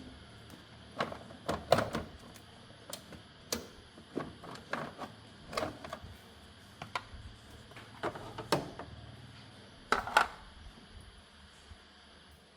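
Irregular clicks and knocks of car parts and tools being handled during disassembly, a dozen or more at uneven intervals, with a few louder knocks.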